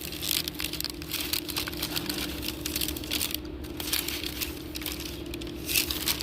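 Crinkling and crackling, as of paper food trays and wrappers being handled while eating, in many short irregular bursts over a steady low hum.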